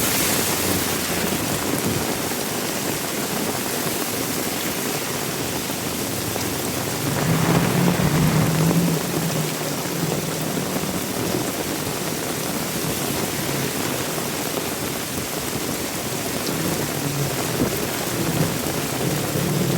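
Heavy rain falling steadily, an even hiss throughout. A vehicle engine hums briefly about seven seconds in, and another engine rises in pitch near the end.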